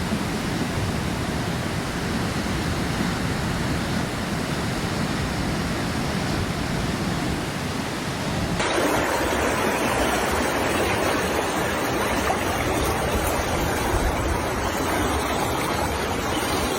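Steady rush of fast-flowing floodwater. About halfway through it changes abruptly to a differently coloured rush as another recording takes over.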